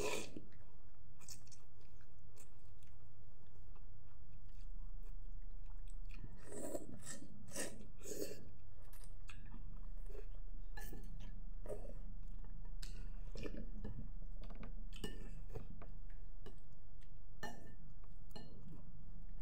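Close-up chewing and mouth sounds of someone eating noodles, with scattered short clicks, over a steady low hum.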